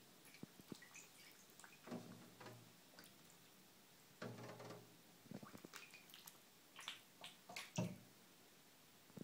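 Mallard duckling moving and dabbling in shallow bathtub water: faint, scattered small splashes, drips and clicks, with the biggest splashes about two seconds in, around four and a half seconds in, and near the end.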